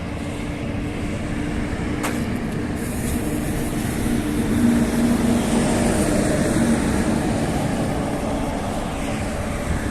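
A motor vehicle's engine running close by, growing louder toward the middle and then fading as it passes, over street noise. A single sharp click about two seconds in.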